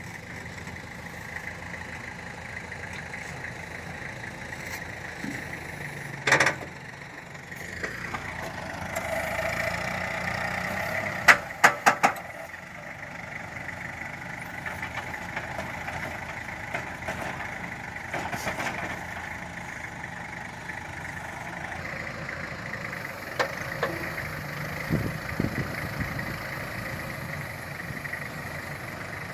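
Tractor engine running steadily while loading silage, with a sharp knock about six seconds in and a quick cluster of sharp knocks around eleven to twelve seconds.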